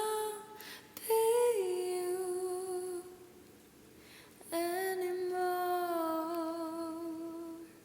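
A woman's voice singing softly with no accompaniment, in long drawn-out notes. There are three held notes, the longest about three seconds, each easing slightly down in pitch, with quiet breaths between them.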